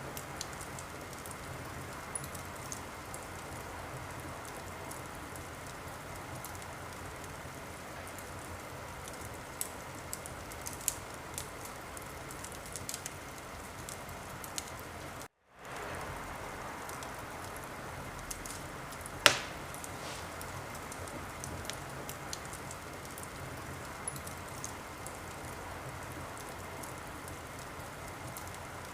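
Wood fire burning in a fireplace: a steady hiss with scattered crackles and pops, and one loud pop about two-thirds of the way through. The sound cuts out for a moment about halfway.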